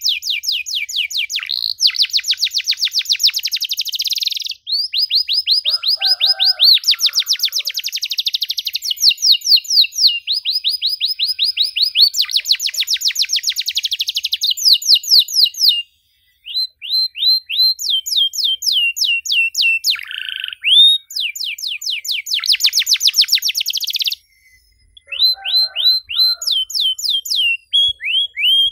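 Domestic canary singing in long, fast trills, each a rapid run of repeated notes, changing from one trill to the next, with two brief pauses around the middle and about two-thirds through.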